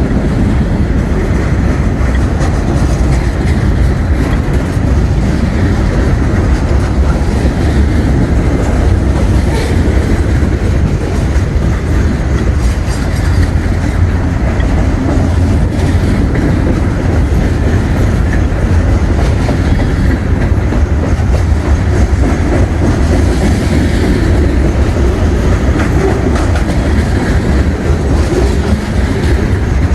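Freight train rolling past, a loud, steady rumble of railcars and wheels on the track with no horn.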